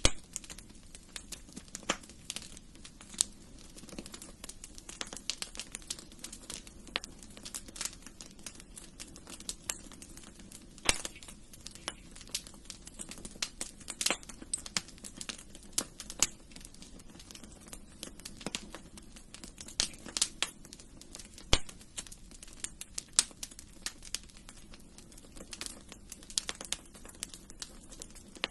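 Wood fire in a fireplace crackling: irregular sharp snaps and pops, several a second, with a few louder pops, over a faint low hiss of the flames.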